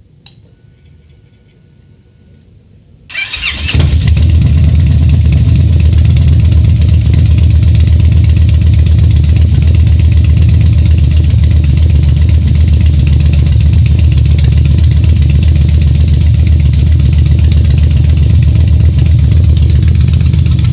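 A click, then about three seconds in the 2013 Victory Jackpot's V-twin starts up and runs loud and steady through aftermarket RPW Swept exhaust pipes, without revving.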